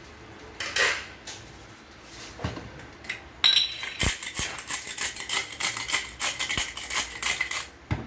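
Kitchen clatter of utensils and dishes: a few separate knocks, then several seconds of quick rattling strokes that stop just before the end.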